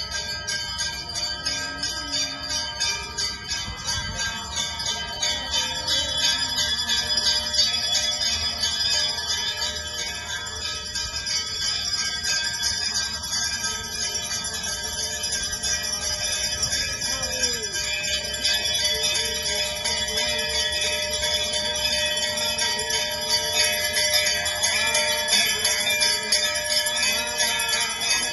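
Many small bells jingling and ringing without pause, their overlapping tones shimmering together.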